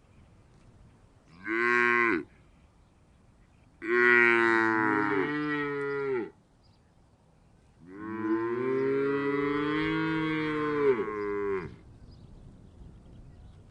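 A cow mooing three times: one short moo, then two long drawn-out moos, the last one the longest.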